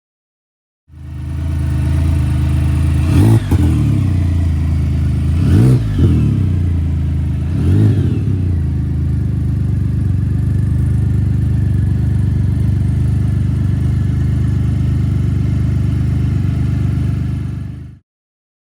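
Can-Am Spyder with an RLS aftermarket exhaust idling, blipped three times in quick revs a few seconds in, then settling back to a steady idle until it cuts off.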